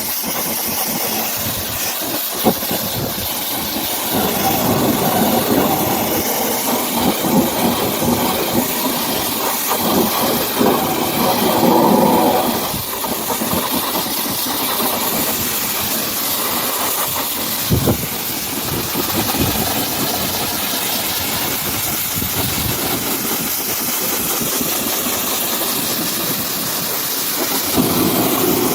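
Pressure washer spraying water in a steady hiss, fuller and louder for several seconds in the middle, with a couple of sharp clicks.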